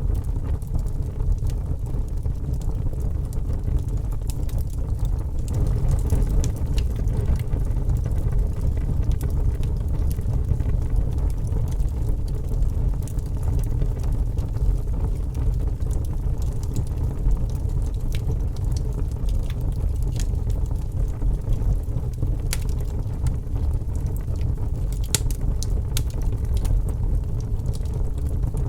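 Fire burning with a steady low rumble and scattered sharp crackles and pops, a few louder pops about three-quarters of the way through.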